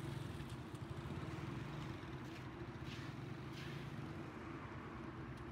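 Motorcycle engines idling with a steady, throbbing hum, with street traffic noise around them.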